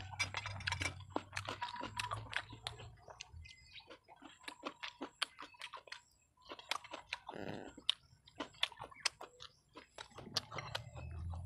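A person chewing close to the microphone: wet smacking and clicking mouth sounds from eating food by hand, coming irregularly, several a second, with a short hum about midway.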